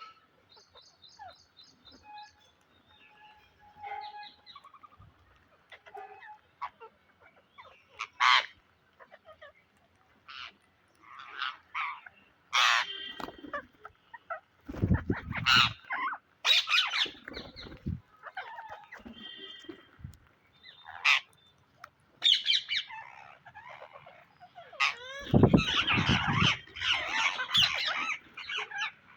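Pet Psittacula parakeets squawking and chattering in a string of short, separate calls, louder and more crowded in the last few seconds.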